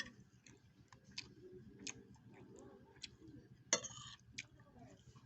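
Quiet mukbang eating sounds: scattered light clicks of a spoon on a bowl of bakso with chewing, and one louder short clatter a little before four seconds in.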